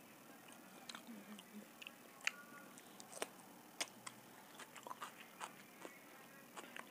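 Close-miked eating sounds of a mouthful of soft masala khichdi being chewed and a raw cucumber slice bitten. The chewing comes as irregular sharp wet mouth clicks and smacks.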